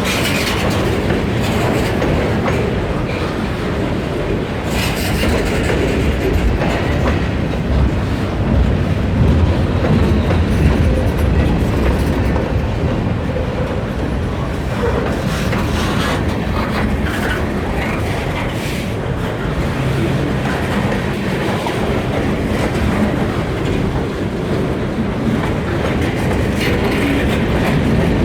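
Freight train rolling past with a steady rumble, its wheels clicking over the rail joints.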